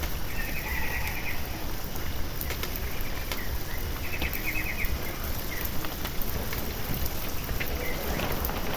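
Water from a sprinkler showering down onto a spring onion bed, a steady rain-like patter.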